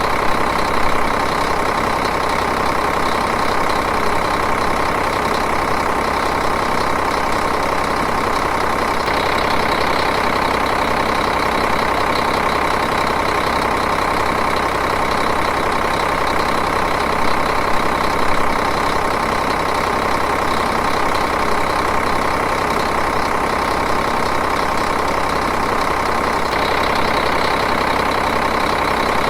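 Diesel engine idling steadily, an even, unbroken running.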